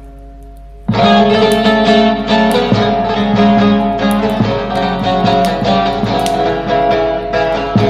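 Instrumental Turkish folk music on a plucked bağlama: quiet held notes, then about a second in a loud passage of rapid plucked notes comes in suddenly with a steady rhythm.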